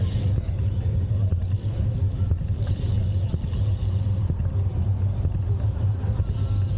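Steady low rumble of wind buffeting the camera's microphone during a bicycle ride, with road noise and passing hiss over it.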